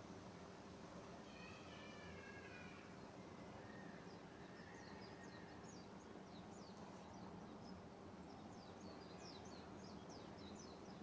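Faint outdoor ambience with a low steady hum. About a second in comes one drawn-out, meow-like animal call. Through the second half there is a run of quick, high chirps from small birds.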